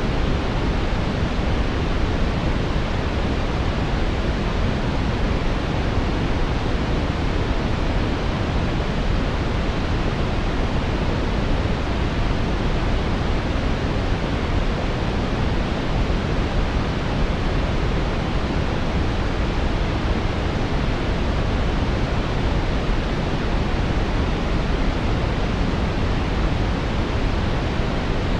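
Synthetic brown noise: a steady, deep hiss without pauses, its energy weighted to the low end.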